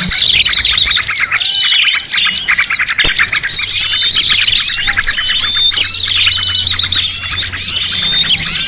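Dense chorus of many small birds chirping and twittering at once, rapid overlapping calls with no pause.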